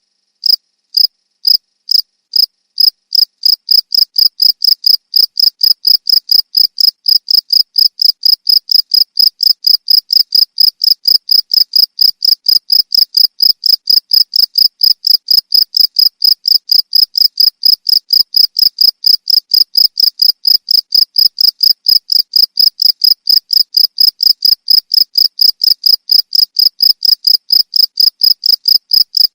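Cricket chirping: a loud, high-pitched chirp repeated evenly, about three or four times a second. The chirps come more slowly for the first three seconds or so.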